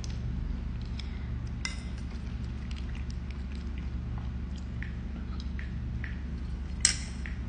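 A mouthful of pasta being chewed with lips closed: faint, wet mouth clicks over a steady low hum, with one sharper click near the end.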